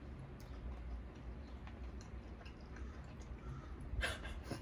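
Close-up chewing of hard, stale fast-food chicken nuggets, with soft scattered mouth clicks and a brief louder crackle about four seconds in.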